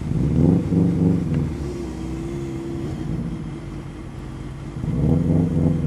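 Motor vehicle engines running, swelling louder twice, once just after the start and again about five seconds in, with a steadier hum in between.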